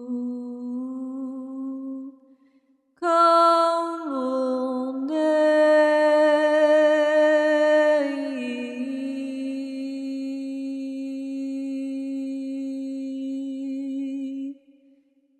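A voice humming and chanting long held notes as a wordless sound-healing chant. A note ends about two seconds in; after a short pause come louder sustained tones that step in pitch, settling into one long steady lower note that stops shortly before the end.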